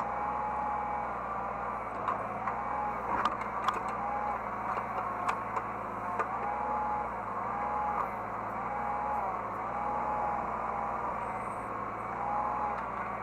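Hydraulic excavator heard from the cab, its engine running steadily under load. A whining tone sags and recovers about once a second as the hydraulics are worked, with a few sharp clicks and knocks.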